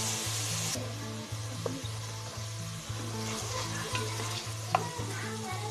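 Chopped onions and ginger-garlic paste sizzling in hot oil in a pressure cooker while a wooden spatula stirs them, with a couple of light knocks against the pot. Soft background music with a steady low beat, about two a second, runs underneath.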